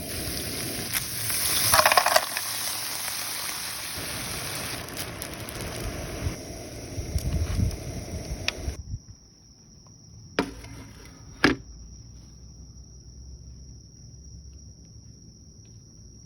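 Food sizzling and frying on a multi-griddle pan, with a louder surge about two seconds in. It cuts off abruptly a little over halfway through, leaving a quieter stretch with a faint steady high whine and two sharp clicks about a second apart.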